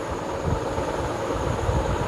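Steady low background rumble with irregular low thuds.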